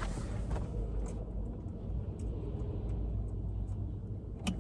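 A few light clicks and taps of wiring-harness connectors and plastic trim being handled, over a steady low background rumble.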